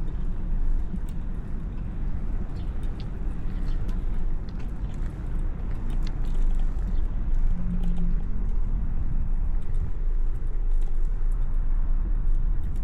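Steady low rumble of wind and road noise from a moving bicycle, with scattered small clicks and rattles and a brief low hum about eight seconds in.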